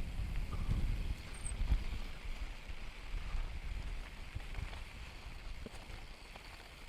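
Wind rumbling on the microphone of a mountain bike ride, easing off over the seconds, over a faint steady rushing hiss.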